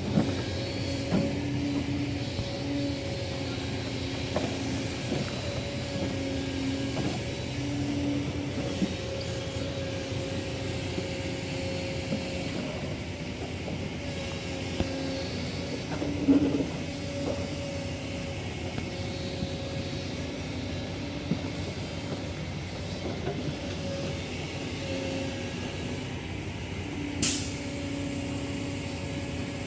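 Heavy diesel engine of earth-moving equipment running steadily with a wavering drone, with a few knocks and a short sharp hiss near the end.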